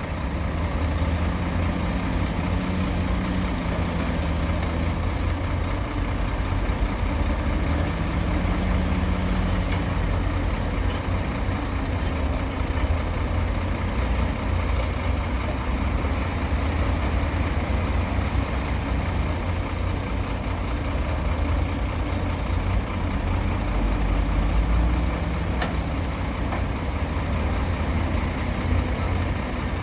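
Heavy diesel engines of an excavator and dump trucks running steadily. A higher steady tone joins the rumble three times, for a few seconds each.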